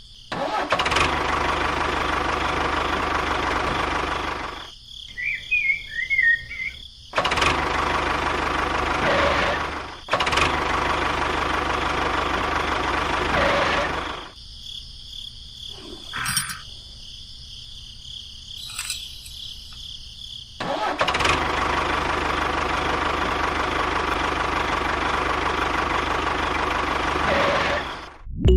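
Motor running steadily in four stretches of a few seconds each, with abrupt cuts to quieter gaps between them.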